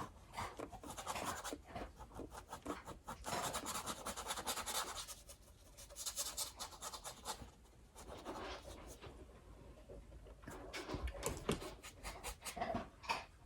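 Paintbrush scrubbing acrylic paint onto canvas in many short, irregular scratchy strokes, with longer scraping passes in places.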